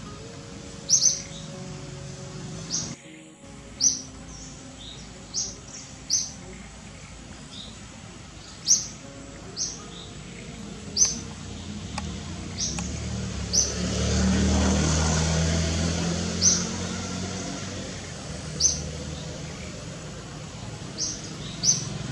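Small birds chirping: short, sharp high chirps repeated every second or two. In the middle a low rumble swells and fades over a few seconds.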